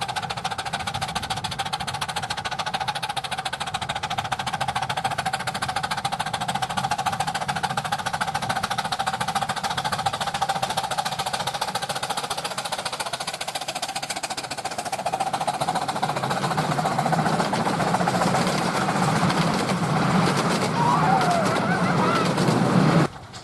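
Miniature steam train running on 10.25 inch gauge track: a continuous, fast rhythmic mechanical clatter. It grows louder over the second half as the train comes closer, then cuts off abruptly near the end.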